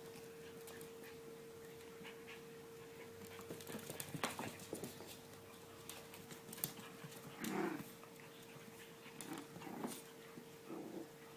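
Young puppies playing, with a run of light clicks and scuffling around the middle and several short whimpers and yips in the second half, the loudest about two thirds of the way in.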